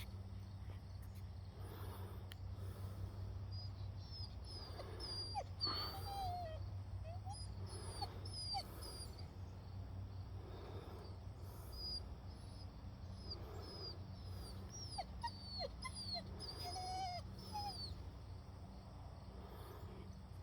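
Puppies whimpering a few times, about six seconds in and again near the end, over the quick high chirps of small birds.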